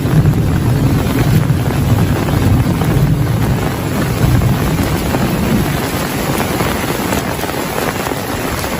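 Heavy rain falling steadily, with a low rolling rumble of thunder underneath that fades away over the first half.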